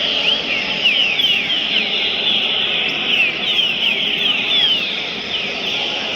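Several songbirds singing at once: many short, quick falling notes over a steady high-pitched chorus.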